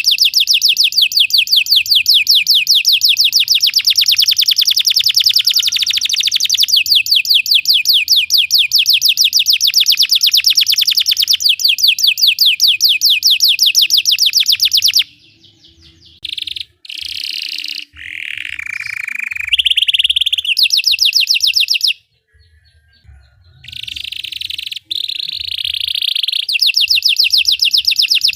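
Belgian canary singing: a long, very fast trill of rapidly repeated high notes for about fifteen seconds, then shorter varied phrases including a falling note, a brief pause, and the fast trill again near the end.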